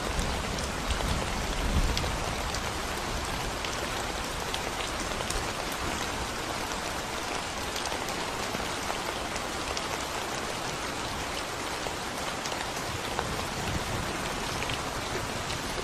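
Steady rain falling on a concrete road and the plants around it: an even hiss with individual drops ticking through it. A low rumble sits under the rain in the first couple of seconds.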